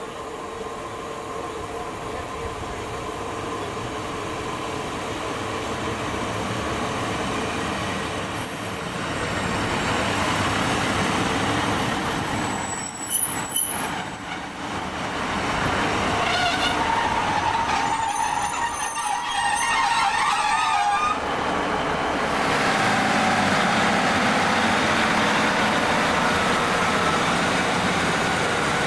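A train coming into the station and braking. The sound grows louder over the first half, with high-pitched squealing around the middle, then settles into its engine running steadily as it stands.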